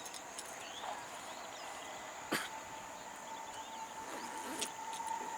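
Quiet outdoor ambience with a steady high insect buzz, a few faint chirps and ticks, and one sharp click about two and a half seconds in.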